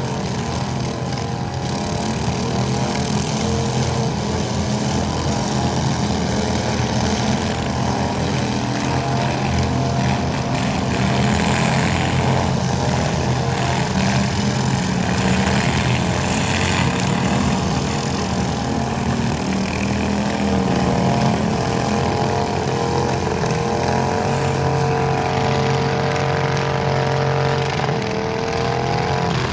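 Small tractor engine running steadily and loud, its pitch rising slightly near the end.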